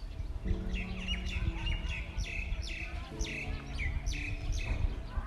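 A bird giving a string of short, high, downward-sweeping chirps, about two a second, over steady low background music.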